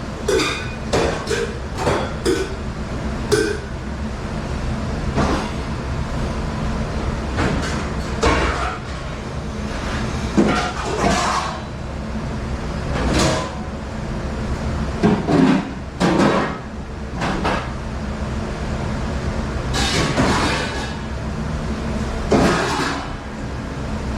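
Dishes and trays clattering and knocking at irregular intervals over a steady low machine hum.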